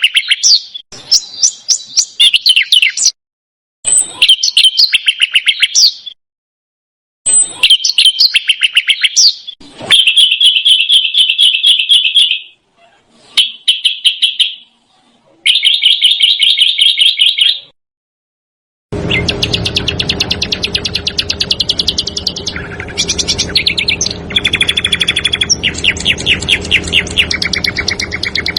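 Small songbird singing fast, tight rattling trills of rapidly repeated high notes in phrases of one to two seconds, with silent gaps between them. From about two-thirds of the way through, the trills run almost without a break over a steady low hum.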